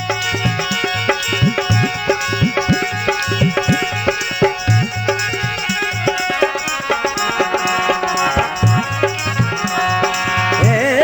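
Instrumental interlude of a Rajasthani folk song: hand drums play a quick, steady rhythm with low bass strokes that bend in pitch, under sustained melodic tones. A singing voice comes in near the end.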